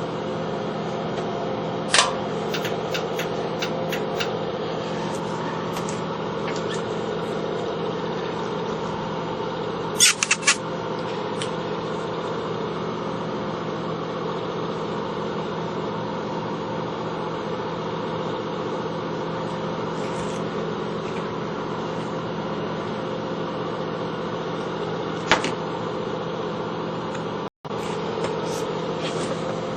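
A steady mechanical hum, like a small motor running, with a few sharp clicks: one about two seconds in, a quick cluster about ten seconds in, and another near the end.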